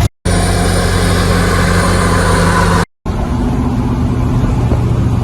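Truck engine running steadily at an even pitch, in two loud stretches each broken off abruptly by a short silence.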